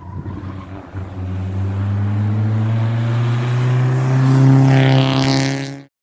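Rally car engine accelerating hard, its pitch climbing steadily as it gets louder, then cut off abruptly near the end.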